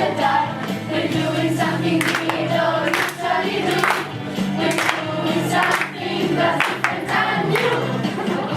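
A children's choir singing a pop-style song over a recorded backing track with a steady beat.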